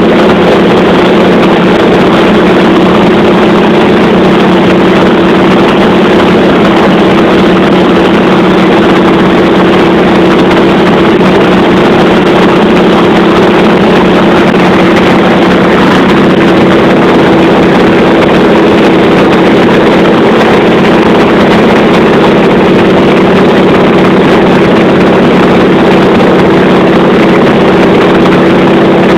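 Piston aircraft engine droning in flight, loud and unchanging in pitch and level.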